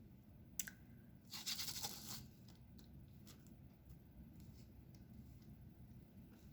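Quiet handling sounds of diamond painting: a click about half a second in, a short scratchy rustle a little over a second in, then faint light ticks.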